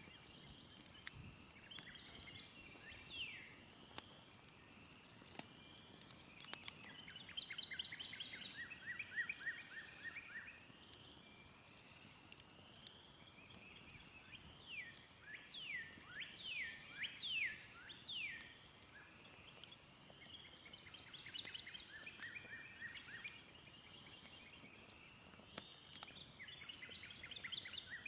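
Songbirds singing: repeated fast trilled phrases and, a little past the middle, a run of quick down-slurred notes, with a few faint crackles from a smoldering campfire.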